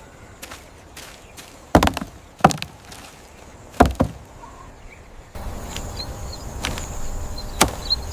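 Three or four heavy chopping knocks, about a second apart. About five seconds in, a louder outdoor background cuts in abruptly, with short high chirps and light ticks.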